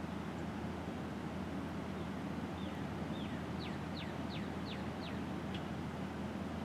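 A songbird singing a run of about seven quick, clear notes, each slurring downward in pitch, starting about two and a half seconds in, over a steady low rumble.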